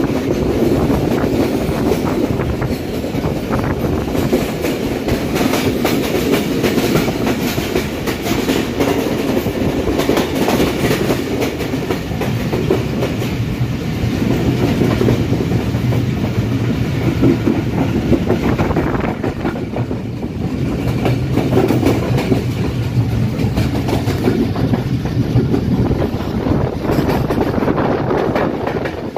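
Karakoram Express passenger coaches running at speed, heard from the carriage doorway: a steady rumble of wheels on rail with repeated clicking over the rail joints.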